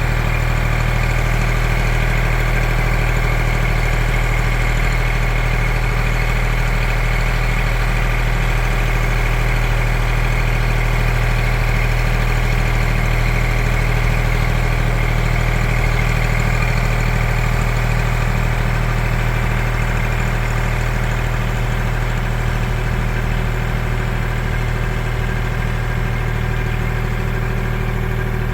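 Kubota L2501 tractor's diesel engine running steadily at a constant speed.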